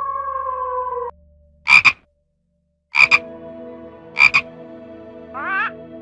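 A wolf howling, one long steady note falling slightly in pitch, that stops about a second in. Then come three short double croaks about a second apart, with a low steady hum underneath.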